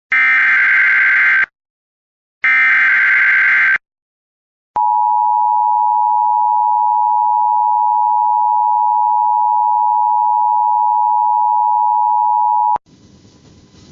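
NOAA Weather Radio emergency alert: two harsh, warbling digital SAME header bursts about a second apart, then the single steady Warning Alarm Tone held for about eight seconds. The tone cuts off sharply into faint static, signalling that a warning broadcast is beginning.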